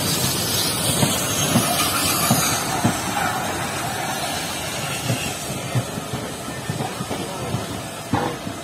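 Vintage Lancashire & Yorkshire Railway passenger coaches rolling past on the rails, their wheels knocking over rail joints about once or twice a second, with a steady hiss. The sound grows gradually quieter.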